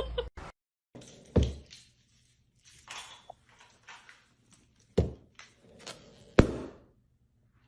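Three dull thumps a few seconds apart, with faint scuffing and rustling between them.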